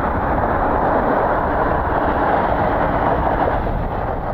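Strong gusty wind buffeting the microphone: a steady, loud rumbling noise with no clear tone.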